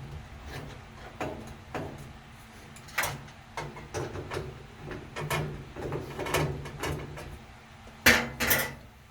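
Irregular clicks, knocks and clatter of a screwdriver and parts being handled while removing screws from a washing machine's water inlet valve, with two louder knocks close together near the end.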